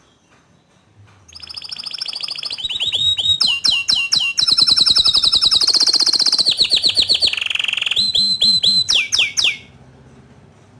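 Green canary singing a long, loud song of fast trills and quickly repeated rising and falling notes. It starts about a second in and stops shortly before the end.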